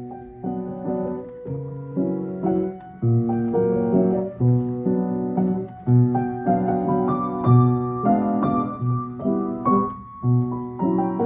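Piano music: a melody over chords, with a low bass note struck about every one and a half seconds.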